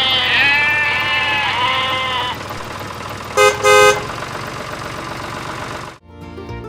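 A bleating, animal-like call that wavers up and down for about two seconds, then two short horn beeps in quick succession.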